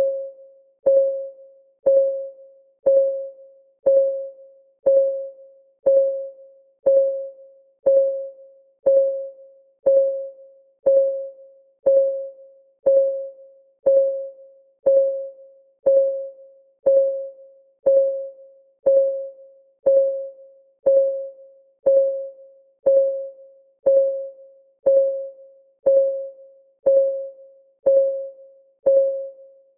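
Countdown timer's clock ticking sound, one tick each second at an even pace. Each tick is a short click with a mid-pitched ringing tone that dies away quickly.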